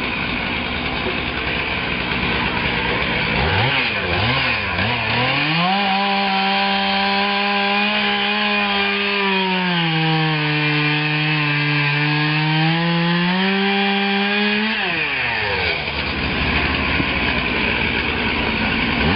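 Chainsaw revving up about three and a half seconds in and running at full speed. Its pitch sags for a few seconds as the chain bites into the wood under load, then picks up again. It is throttled back a little after halfway.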